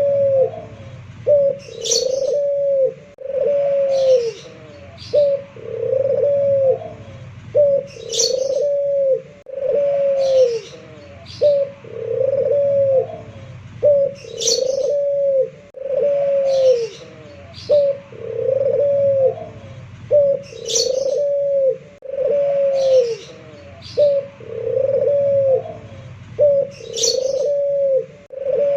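Puter pelung (Barbary dove) cooing over and over: phrases of a short note followed by drawn-out arched coos, repeating in a steady cycle. A short high chirp from another small bird comes about every six seconds.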